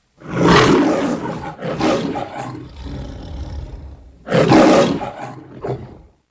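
An animal roaring: one long roar that slowly dies away, a second, shorter roar about four seconds in, and a brief last one near the end.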